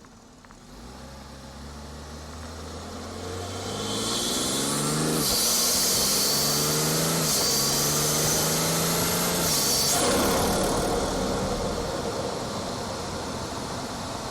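BMW 440i's B58 turbocharged inline-six pulling hard, heard through an aftermarket front-mount intake. The engine note climbs, drops with an upshift about five seconds in, and climbs again, with a high turbo spool whistle and intake whoosh over it. The whistle cuts off about ten seconds in as the throttle is lifted.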